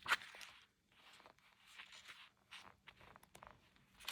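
Pages of a paperback bird field guide with slick paper being turned: a sharp page flip just after the start, then several softer rustles and swishes.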